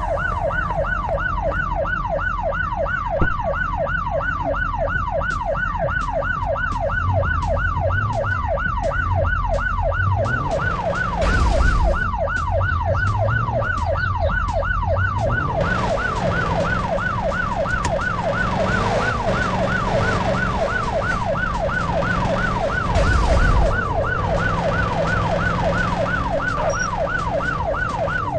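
A siren in a fast yelp, its pitch sweeping up and down a few times a second without a break.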